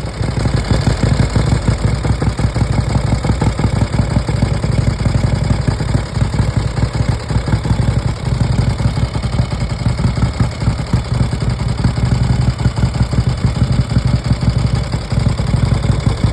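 1953 Harley-Davidson Panhead's overhead-valve V-twin engine running just after being kick-started, a rapid, even train of exhaust beats.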